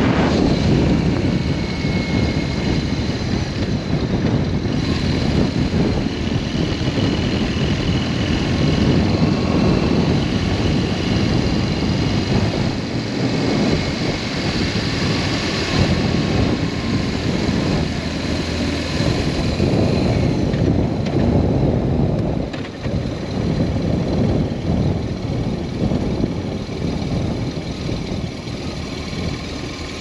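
BMW R1200S boxer-twin motorcycle riding at road speed: steady engine drone under a heavy rush of wind on the microphone, easing off briefly about two-thirds of the way through.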